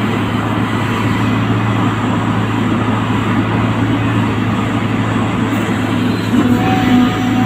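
An engine running steadily: a loud, even mechanical drone over a constant low hum.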